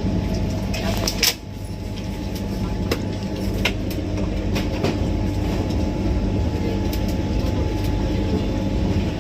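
Vande Bharat Express train running with a steady low rumble and a few sharp clicks, the loudest about a second in.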